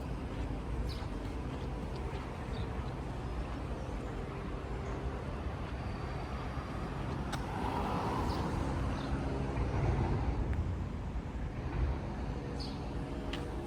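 Steady low rumble of road traffic, swelling for a couple of seconds midway, with a few faint clicks.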